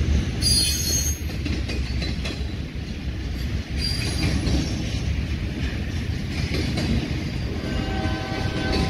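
Intermodal freight train of trailers on flatcars rolling past with a steady low rumble of wheels on rail. Brief high-pitched wheel squeals come about half a second in and again about four seconds in.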